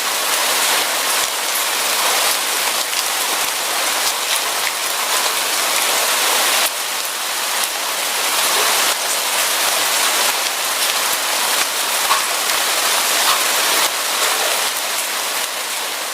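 Steady heavy rain falling, an even hiss with scattered close raindrop ticks. No thunder.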